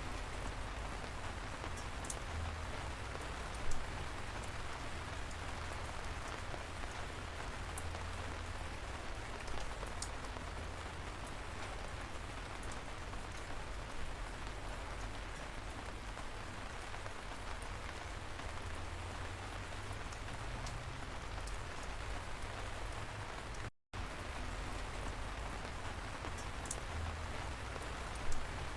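Light rain falling steadily, an even hiss with scattered drop ticks and a couple of louder single drop hits. The sound cuts out for a split second about three-quarters of the way through, then resumes.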